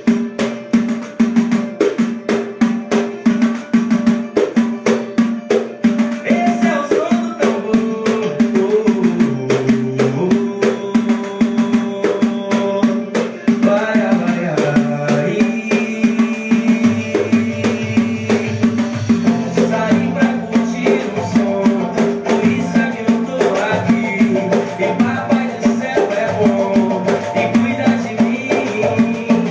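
Pandeiro played in a steady, fast rhythm over music with a melody line; a bass part comes in a little past halfway.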